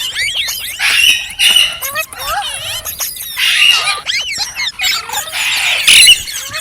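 Green parrots chattering: a busy run of quick whistled chirps that swoop up and down in pitch, mixed with harsh squawks and squeals.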